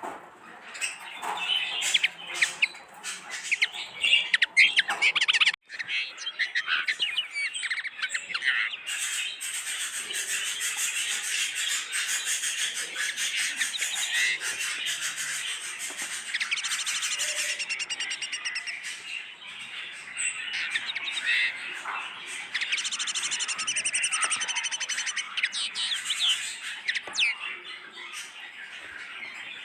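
A group of caged pet birds chirping and chattering continuously, many calls overlapping. There are sharper, louder calls in the first few seconds and a brief break about five seconds in.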